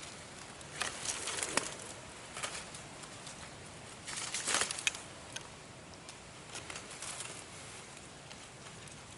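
Dry fallen leaves rustling and crackling in short bursts, several times, as they are disturbed or pushed aside.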